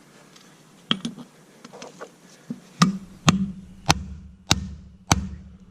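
Hammer blows on a socket extension used as a drift, driving a worn wheel bearing out of a side-by-side's spindle: one sharp metallic strike about a second in, then five evenly spaced strikes about 0.6 s apart in the second half, with a low steady hum underneath from about halfway.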